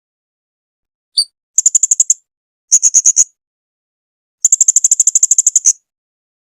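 Blue-crowned hanging parrot (serindit) calling: one sharp note, then three fast trills of high, clicky notes, the last about a second long.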